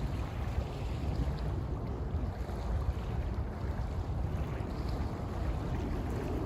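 Wind buffeting the microphone in a steady low rumble, over river water lapping at a sandy shore.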